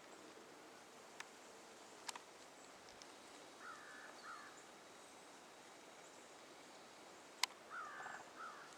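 Faint calls of an unidentified animal: two short clusters of wavering, pitched calls a few seconds apart, with a few sharp clicks between them.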